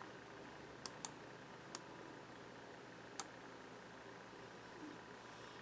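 Four short, sharp clicks of computer controls over faint room tone, two close together about a second in, one near two seconds and one a little after three seconds, as the footage is set up to replay.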